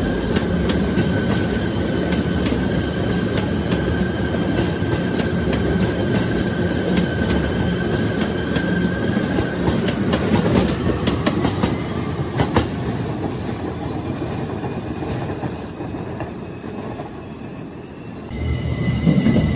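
A rapidKL light-rail train passes and pulls away. Its wheels click over the rail joints under a steady rumble and a high whine, and the sound fades as it recedes.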